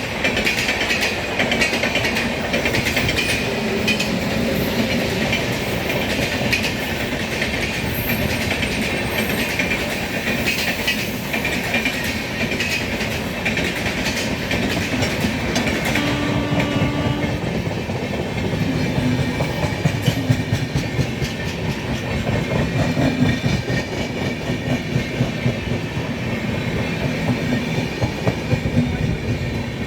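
Superfast express train passing at speed: continuous wheel and carriage rumble with rapid clickety-clack of wheels over rail joints. A brief steady tone sounds just past the middle.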